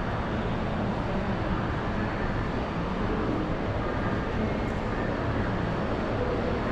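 Steady din of a large, crowded indoor exhibition hall: an even wash of distant crowd noise over a low hum, with no single event standing out.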